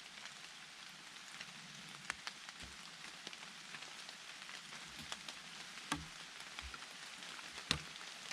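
Steady rain falling in a forest, an even patter with individual drops landing close by as sharp ticks, the loudest about two, six and nearly eight seconds in.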